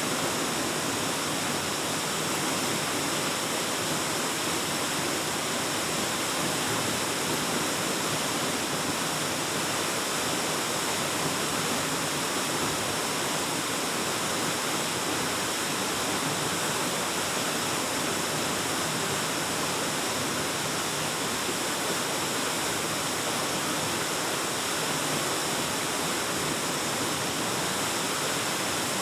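Waterfall: water pouring steadily into a pool, an even rushing hiss strong in the high pitches, with no change throughout.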